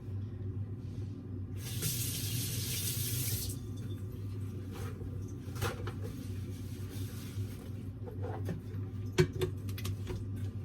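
Electric juicer running with a steady low hum. A hissing rush lasts about two seconds near the start, and a few sharp clicks follow later.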